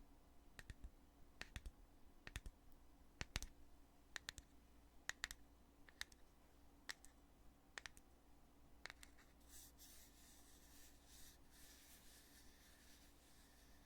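Lid of a foundation container being opened and snapped shut over and over: sharp clicks, often in pairs, about one a second. About two-thirds of the way in the clicks stop and a soft rubbing hiss takes over.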